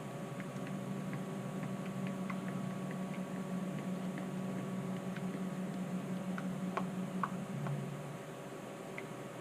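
Steady hum of a garage heater with scattered light ticks and clicks; the lowest part of the hum drops away about eight seconds in.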